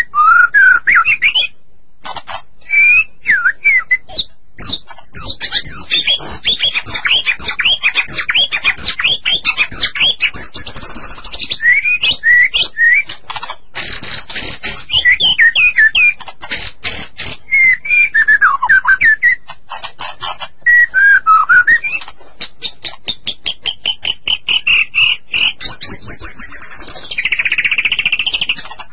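White-rumped shama (murai batu) singing: a run of loud, varied whistled phrases, rapid chattering trills and sweeping up-and-down notes, with short pauses between phrases.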